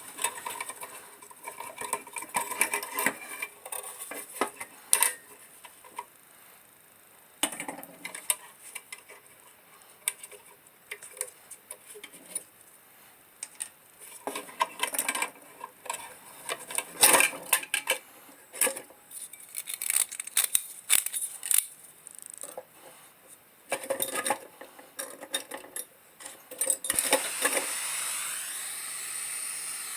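Scattered metallic clinks, knocks and rattles of an old tin-plated steel oil lantern's parts being handled and taken apart. Near the end a steady hiss starts.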